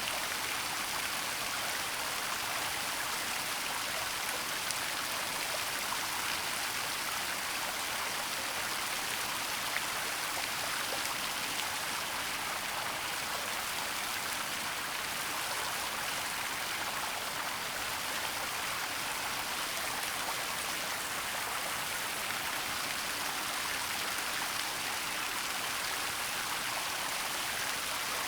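Waterfall running steadily: an even, unbroken rush of falling water with a bright hiss.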